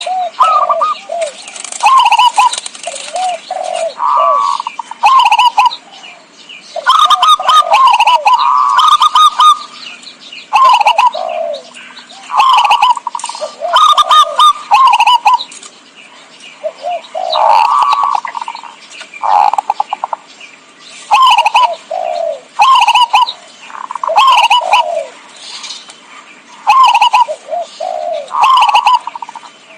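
Zebra doves (perkutut) cooing, played as a lure call: loud phrases of short gliding coo notes repeat every second or two, with brief pauses between them.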